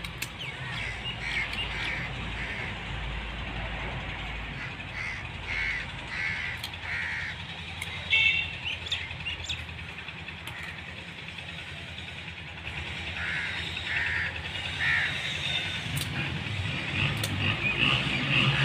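A bird calling repeatedly in short calls, one run in the first seven seconds and another around fourteen seconds in, with a louder call about eight seconds in. A few sharp clicks come near the end.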